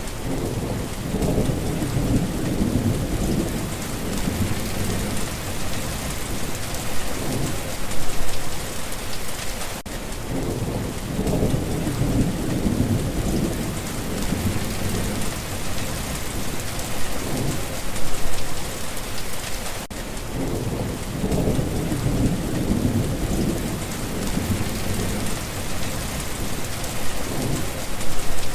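Steady rain falling, with thunder rolling three times, about ten seconds apart, each rumble lasting a few seconds.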